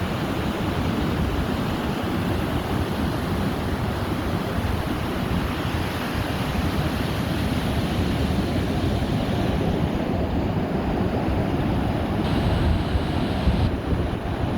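Pacific Ocean surf breaking and washing up the beach as a steady rushing noise, with wind buffeting the microphone.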